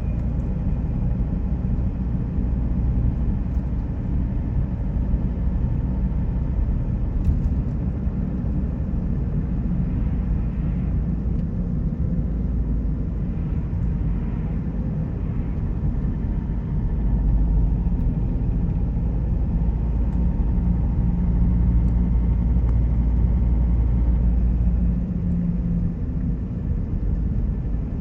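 A car driving on the road: a steady low rumble of engine and tyre noise, growing a little louder for a stretch past the middle.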